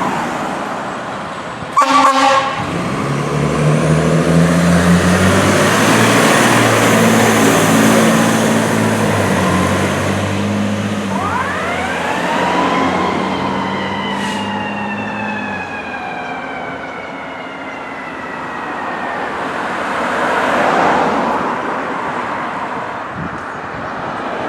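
Fire apparatus leaving the station: a short air horn blast about two seconds in, then a diesel engine revving and stepping through gears. Around the middle a siren winds up quickly and then slowly falls in pitch.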